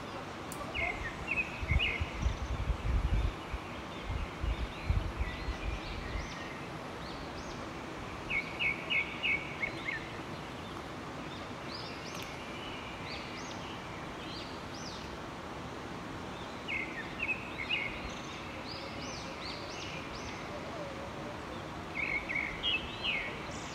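A bird singing short phrases of quick high notes, repeated about every six to seven seconds, over steady outdoor hiss. Wind buffets the microphone in the first few seconds.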